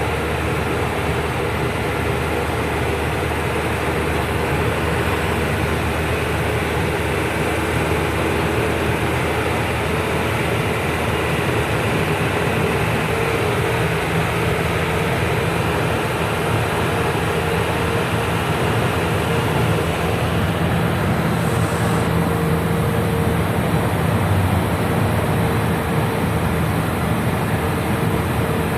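Truck engine running steadily at road speed, with road and tyre noise, heard from inside the truck.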